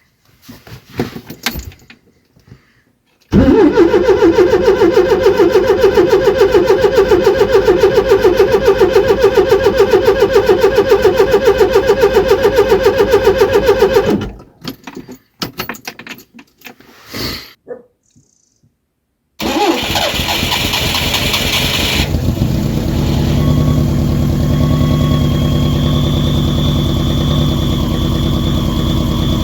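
Citroën GS Club's air-cooled flat-four being cold-started in deep frost: the starter cranks in an even rhythm for about ten seconds without the engine catching, then stops. A second try about twenty seconds in fires within a couple of seconds, and the engine settles into a steady run with a high whine over it.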